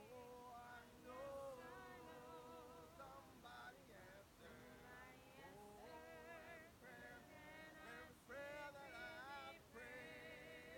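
Very faint hymn singing: a soloist's voice with vibrato on held notes and short phrases, barely above silence between louder sung lines.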